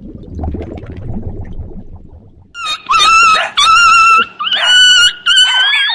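An animal's high-pitched whining cries, five in quick succession starting about halfway through, some bending upward in pitch, after a stretch of low rumbling noise.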